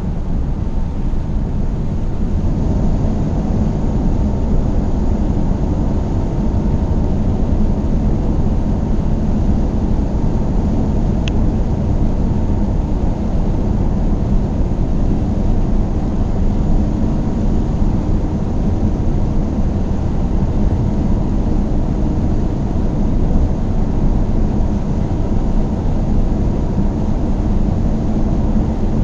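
Car driving at a steady pace: a low, even rumble of engine and tyre noise. A brief high chirp sounds once about eleven seconds in.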